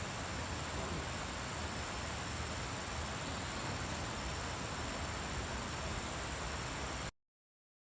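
Steady rushing water of a waterfall, an even hiss across all pitches, which cuts off abruptly about seven seconds in.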